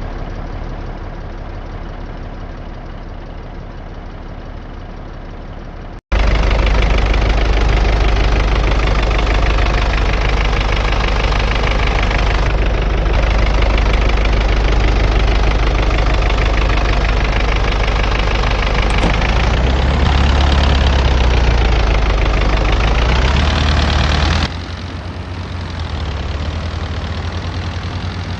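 MAZ-241 city bus engine running, a steady heavy drone heard during the ride. The sound jumps abruptly louder about six seconds in and drops back near the end.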